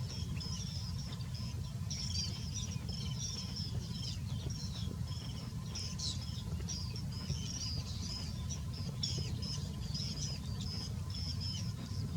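Baby birds chirping: a continuous run of short, high chirps, over a steady low rumble.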